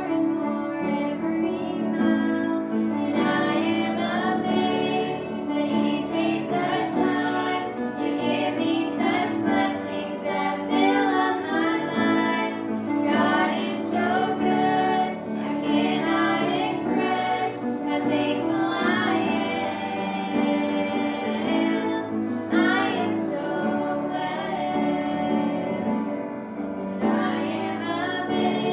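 A woman singing a sacred song with instrumental accompaniment, the melody held over steady sustained low notes.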